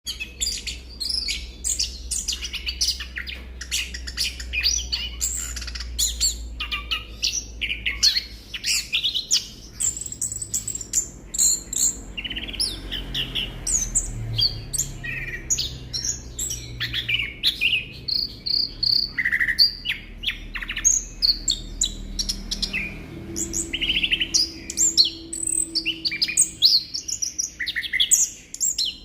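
Chestnut-capped thrush (anis kembang) singing a continuous, fast-changing song of short whistled notes and quick slurred phrases.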